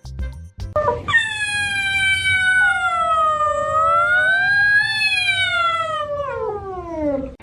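A pet's single long howl, lasting about six seconds, wavering in pitch and sliding down near the end.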